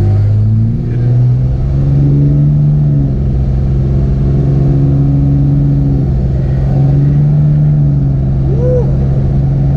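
Dodge Ram 2500's Cummins turbo-diesel engine pulling the heavy armoured truck along, heard from inside the cab: a steady drone whose pitch rises about a second in and then holds.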